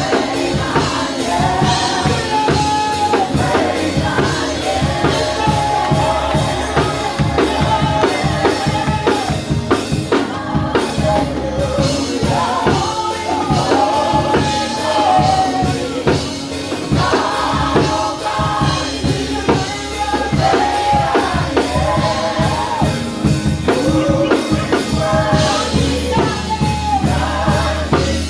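Live worship music: singing over a band with a drum kit keeping a steady beat.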